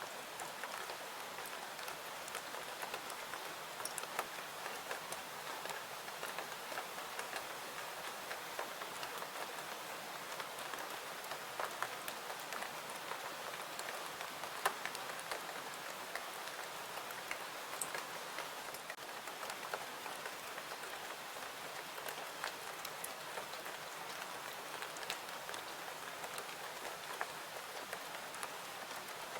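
Steady rain falling, an even hiss with scattered sharp drips and clicks throughout.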